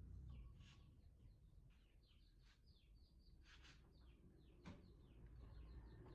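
Faint bird chirping: many quick, short falling chirps repeating throughout, with a few sharper ticks over a low background rumble.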